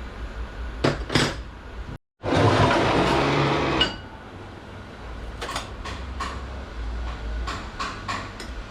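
Steel transmission clutch plates clinking and tapping as they are handled and set into a clutch drum, with two sharp knocks about a second in. After a short gap, a louder rushing noise lasts about two seconds, followed by scattered light metallic clicks.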